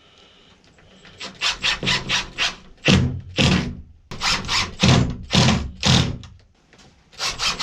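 Repeated rasping strokes on wood, starting about a second in: a quick run of short strokes, then longer ones at about two a second.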